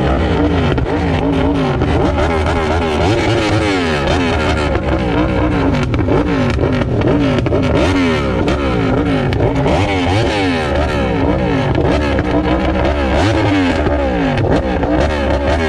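Yamaha R1 inline-four sport bike with an SC Project aftermarket exhaust, revved repeatedly while standing: the engine note climbs and falls over and over in quick blips without a break.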